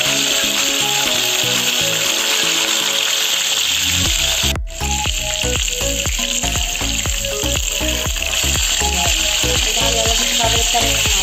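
Chicken pieces frying in hot oil in a skillet, a steady sizzle, with background music playing over it. Both break off for a moment about four and a half seconds in.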